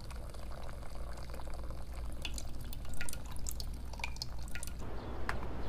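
Pour-over coffee dripping: scattered drops of water plinking into the brew, over a low steady hum. About five seconds in, a steadier hiss comes up.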